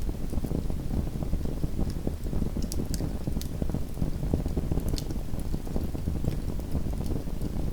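Small wood fire crackling: a steady low rumble with scattered sharp pops, a few of them louder about three and five seconds in.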